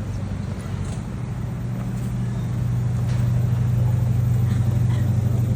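Lisbon electric tram running with a steady low motor hum that grows louder about halfway through.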